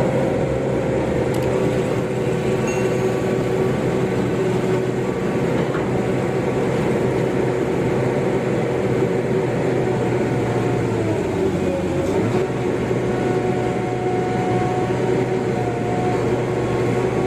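Excavator's diesel engine running steadily as it works, its pitch dipping briefly about two-thirds of the way through as it takes load and then recovering.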